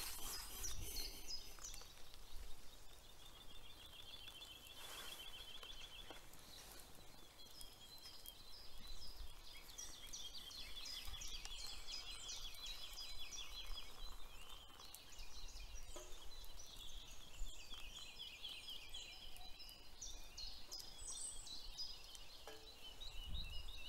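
Small birds singing and calling, many short high chirps, with a fast, even trill a few seconds in.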